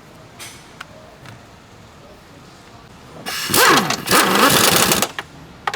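A few faint metallic clicks, then about three seconds in a cordless power tool starts whirring loudly, its motor pitch rising and falling as it runs bolts on the engine mount.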